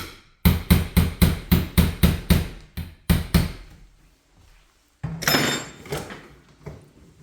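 Hammer blows, about nine quick even strikes at roughly three a second, knocking at window trim or a window frame to loosen it. They stop, and about five seconds in a single louder knock and rattle fades out.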